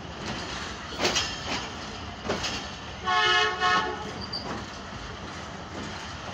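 Passenger train coaches rolling along, the wheels knocking over rail joints. About three seconds in a locomotive horn sounds a short blast, broken briefly, lasting under a second.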